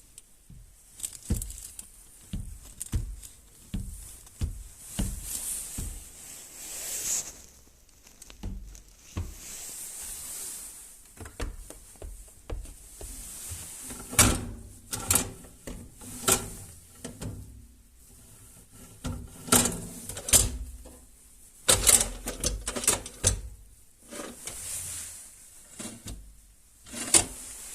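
Schaub Lorenz washing machine running with a hum that the owner presents as the fault, marked by irregular clunks and knocks with bursts of hiss. A faint steady hum runs under the knocks in the middle stretch.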